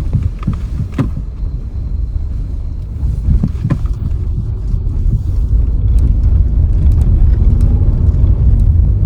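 Vehicle driving on a road: a steady low rumble of engine and tyres with some wind on the microphone, and a few knocks from bumps about a second in and around three and a half seconds. It grows louder in the second half as the engine note rises.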